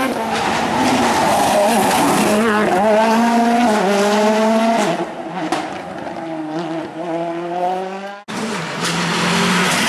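Rally car engine revving hard, its pitch climbing and dropping with gear changes, then growing quieter as the car accelerates away. It cuts off suddenly about eight seconds in and another loud rally engine starts at once.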